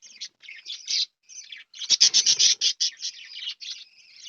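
Pet budgerigars chattering: a continuous run of quick, high chirps and warbles, loudest and densest about two seconds in.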